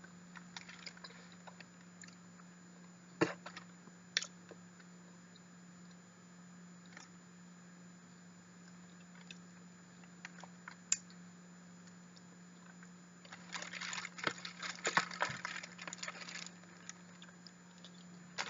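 Quiet close-up eating sounds of soft durian flesh: scattered sharp mouth and handling clicks, then a few seconds of dense crackling and clicking about three quarters of the way through, over a steady low hum.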